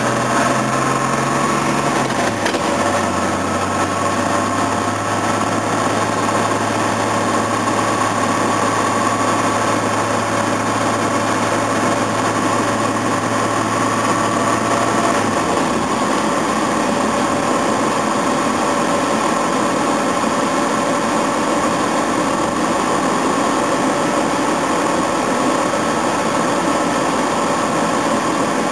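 A car's engine and road noise, heard steadily while the car is driven. A low hum drops away about halfway through.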